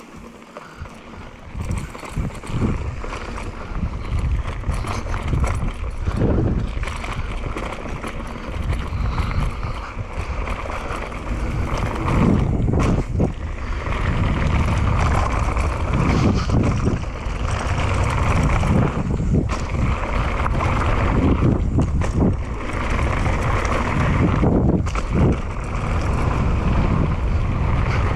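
Downhill mountain bike riding over a rough dirt trail: tyres rumbling, the bike rattling over bumps with irregular knocks, and wind buffeting the microphone.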